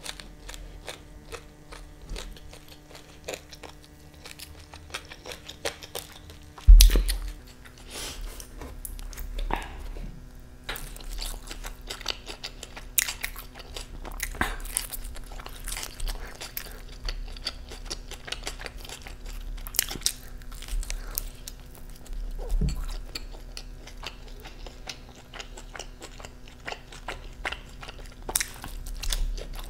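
Close-miked biting and chewing of a slice of veggie pizza, with crisp crunching throughout. A loud dull thump comes about seven seconds in, and a softer one about twenty-two seconds in.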